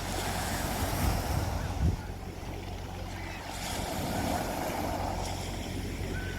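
Sea waves washing onto a beach, one surge swelling and then dying away over the second half. Wind gusts thump on the microphone about a second and two seconds in, over a steady low hum.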